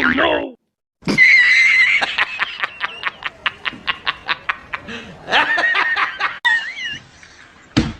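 High-pitched laughter: a run of quick, evenly spaced 'ha' pulses, about four or five a second, that gradually fade.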